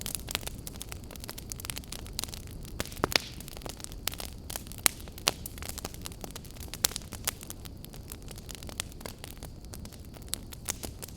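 Wood campfire burning with irregular crackles and sharp pops over a low steady rumble of flames.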